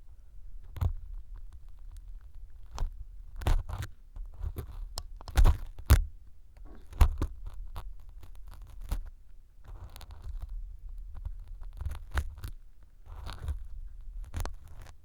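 Ear pick scraping and crunching out crumbly pieces of floral foam inside a silicone ear model, close up on a binaural microphone: irregular crisp crackles and short scratchy strokes.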